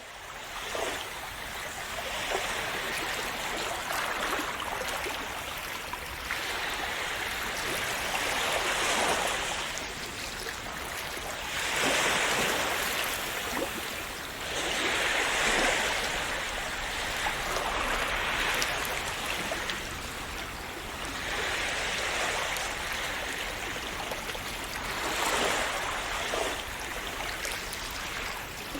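Sea waves washing in, a continuous rushing hiss that swells as each wave breaks, about every three to four seconds.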